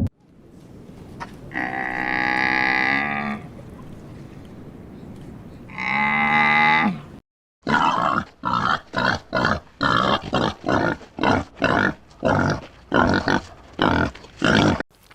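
Animal calls: two long drawn-out calls, then, after a brief break, a fast run of short calls at about two a second.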